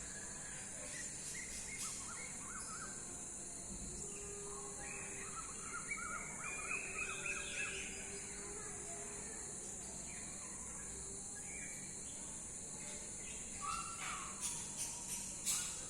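Several birds chirping in short bursts of quick notes, busiest around the middle and near the end, over a steady high-pitched hiss.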